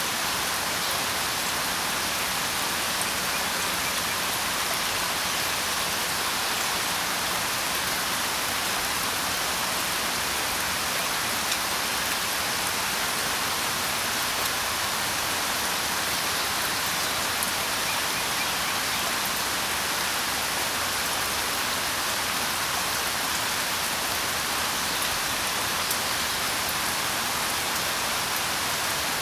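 Steady rain: an even hiss of many falling drops that holds at one level throughout, with a few slightly louder single drops now and then.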